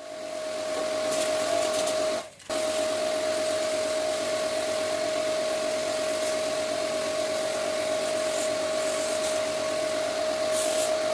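A small electric motor running steadily with a high whine over a rushing noise, cutting out for a moment about two seconds in and then starting again.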